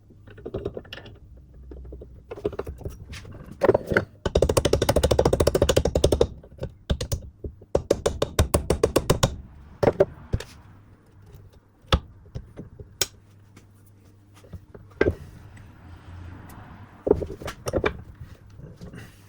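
Metalwork knocking and clicking from a universal-joint repair: two bursts of very rapid, loud metallic rattling clicks, followed by several single sharp knocks.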